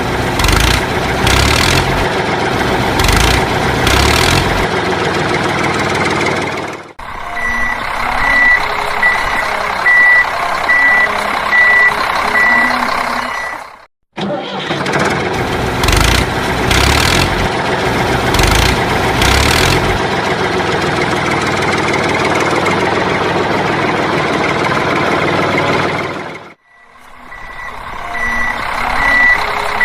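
Truck-like engine sound with a series of revving surges, then running steadily while a reversing beeper sounds about one and a half times a second. The same sequence repeats as a loop, with short cut-outs between the passes.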